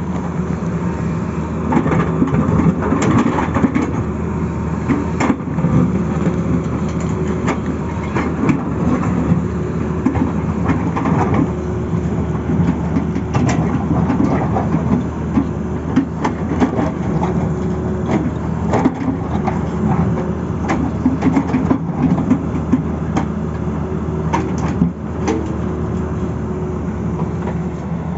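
Tata Hitachi excavator running steadily under work, its engine hum overlaid with frequent sharp clanks and rattles.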